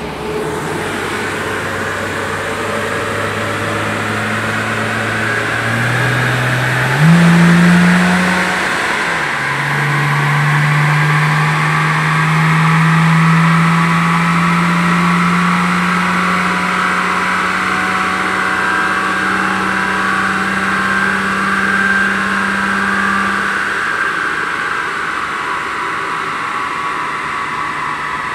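2.3-litre car engine running on a rolling road dynamometer, its revs stepping up twice about six and seven seconds in, then climbing slowly and steadily under load in a long power run. The engine note drops away about twenty-three seconds in as the throttle is lifted, leaving the tyres and rollers spinning down.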